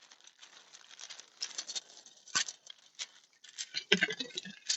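Faint, scattered clicks and scrapes of a pointed pick and needle-nose pliers working at the clip pins inside a car door, with one sharper click about two and a half seconds in.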